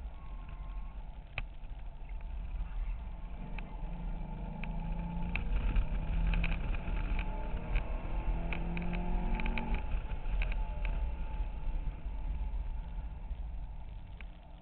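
A Corvette Z06's 7.0-litre V8 heard from inside the cabin under hard track driving. Its revs climb and drop a few times with gear changes, loudest in the middle, and it quietens near the end as the car lifts off. Short clicks sound throughout.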